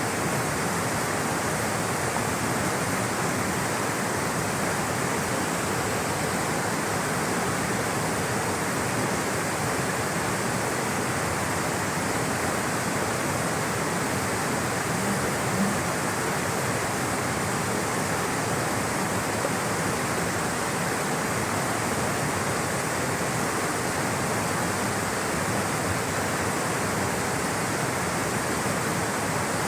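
Rushing water flowing steadily, a constant even rush that does not change.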